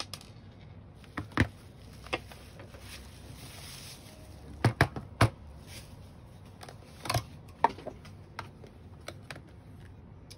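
Scattered plastic clicks and knocks from handling a Dyson V8 cordless vacuum and its battery pack as the battery is pulled out and set down. The sharpest are a single knock early on, a quick run of three about halfway, and two more a couple of seconds later.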